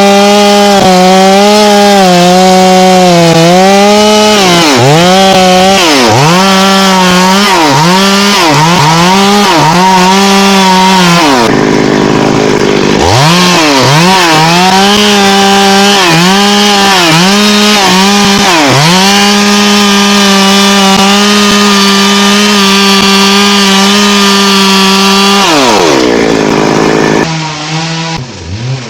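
Two-stroke chainsaw running at full throttle and cutting into thambakam (Hopea parviflora) wood. Its pitch dips and recovers again and again as the chain bogs under load in the cut. It then holds steady at high revs and winds down near the end.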